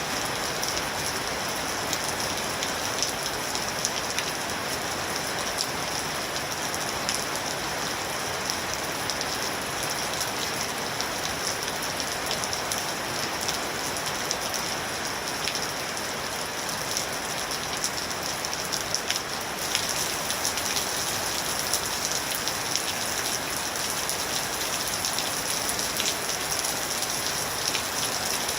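Steady rain falling on a surface, with many individual drops ticking through it; it grows a little brighter about twenty seconds in.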